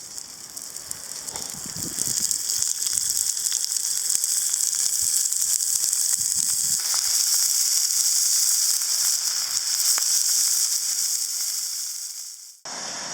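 Food sizzling in a pan over a campfire: a steady frying hiss with small crackles that builds up over the first couple of seconds and cuts off suddenly near the end.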